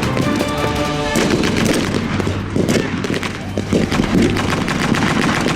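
Rapid blank gunfire from a battle reenactment: a dense mix of single rifle shots and machine-gun bursts, overlapping with no pause.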